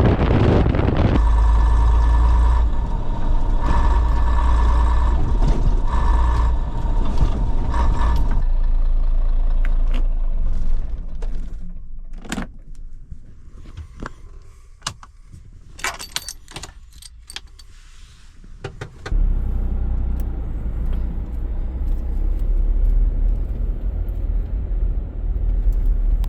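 Old Scania lorry's diesel engine running with a heavy low rumble, dying away about eight seconds in. Then a quieter stretch with scattered clicks and a jangle of keys. A low engine rumble comes back suddenly about nineteen seconds in.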